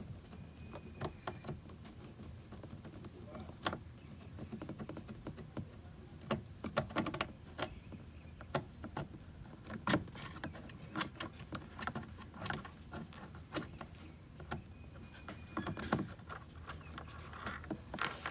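Scattered light clicks, taps and scrapes of a screwdriver working a hard-to-reach Phillips screw in a car door's plastic trim panel.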